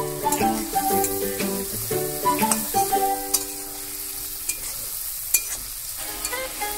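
Sliced onions and spices sizzling in hot oil in a metal kadai while a steel spatula stirs them, with sharp scrapes and taps against the pan. Plucked-string background music plays over the first few seconds, drops out, and returns near the end.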